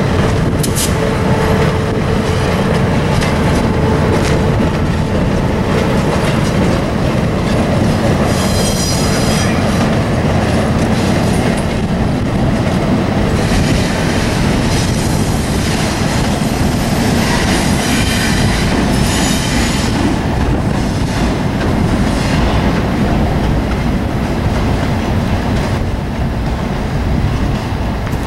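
Diesel switcher locomotives rolling over a steel girder bridge in a steady low rumble. High-pitched wheel squeal comes in around nine seconds in and again from about 13 to 20 seconds in.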